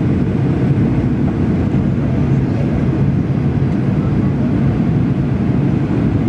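Steady cabin noise of a jet airliner descending toward landing: an even, loud drone of engines and airflow with a low hum running under it.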